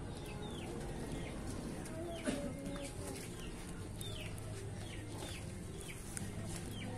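Birds chirping in the background: short high chirps that fall in pitch, repeated about every half second, with one louder, lower call a little after two seconds in.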